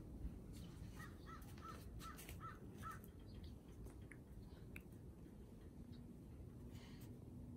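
A bird calling in a quick series of about six short calls between one and three seconds in, over a faint low rumble.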